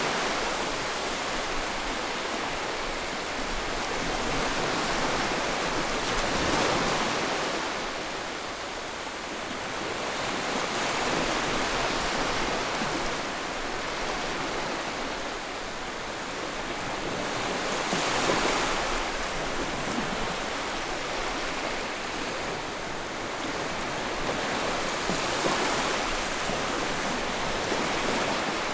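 Ocean waves washing onto the shore: a continuous hiss of surf that swells and ebbs with each wave, with the biggest surges about six, eighteen and twenty-five seconds in.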